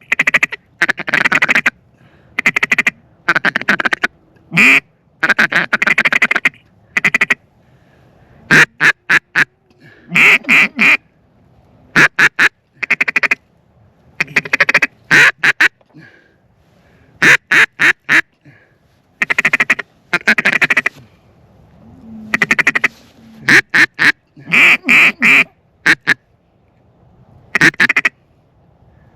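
Duck call blown hard and close in repeated runs of quick quacks, with short pauses between runs: a hunter calling to work incoming ducks.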